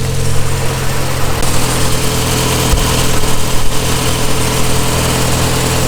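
Car engine idling steadily, its note getting fuller and rougher about a second and a half in.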